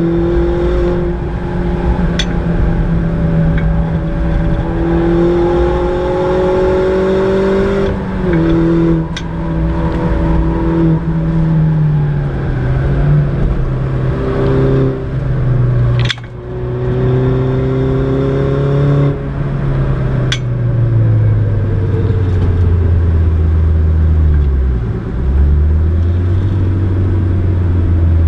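Mini John Cooper Works R56's turbocharged four-cylinder engine and exhaust heard inside the cabin. It pulls hard through the gears, rising in pitch with breaks at the shifts and a few sharp cracks. In the second half it settles to a lower, steadier note as the car eases off.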